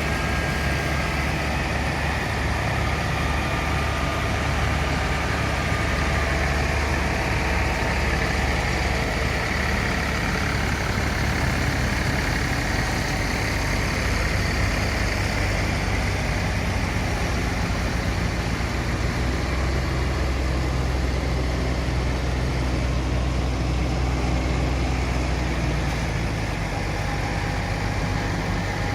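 An engine running steadily with a low hum, holding its speed with a slight shift in pitch partway through.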